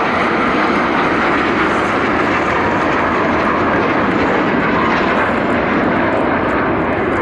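Aermacchi MB-339 jet trainers flying overhead, their turbojet engines making a loud, steady jet noise.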